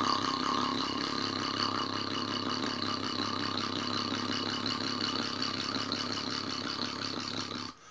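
Diesel engine idling steadily with a loping beat, cutting off suddenly near the end.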